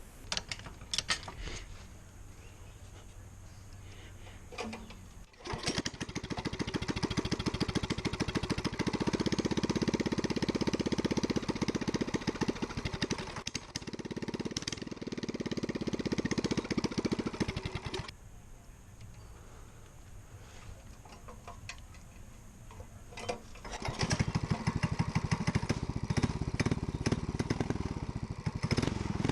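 Small single-cylinder gasoline engine running with a fast, even pulse. It comes in suddenly about five seconds in, runs loud, drops to a quieter level for several seconds, then picks up again near the end.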